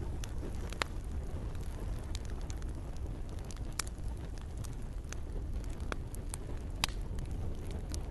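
Campfire crackling: sharp pops scattered over a steady low rumble of burning wood.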